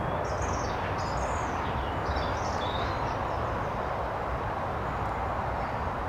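Small birds chirping several times in the first half, over a steady low outdoor rumble.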